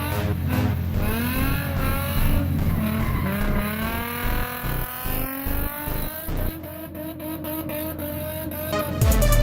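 Nissan 350Z's VQ35DE V6 through a Magnaflow exhaust revving hard while drifting, its pitch climbing in long sweeps, dropping and climbing again, with some tyre squeal. Electronic music comes in near the end.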